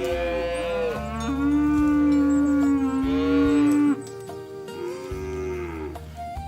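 Cattle mooing over background music: several drawn-out moos, the longest and loudest held from about a second in until about four seconds in, with shorter falling calls before and after it.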